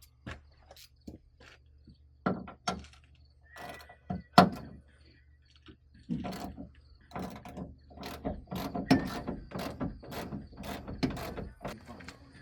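Ratchet wrench clicking in quick runs while the hood's adjustment bolts are worked, after a few separate sharp metal knocks in the first seconds.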